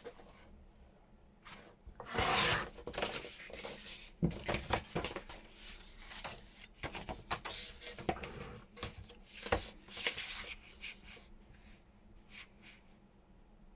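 Paper being handled and trimmed on a paper trimmer: a run of irregular rustling and rasping strokes, busiest in the middle, then settling down near the end.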